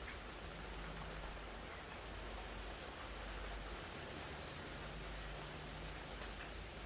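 Steady rain falling, an even hiss with a few faint drop ticks. A faint high whistle rises in pitch about two-thirds of the way in and then holds.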